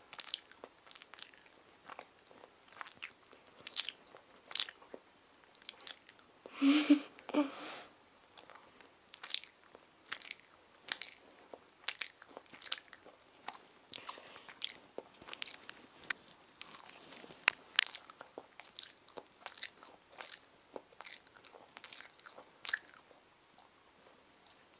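A child chewing a soft sandwich close to the microphone: wet mouth clicks and smacks, roughly two a second. A brief louder mouth sound comes about seven seconds in.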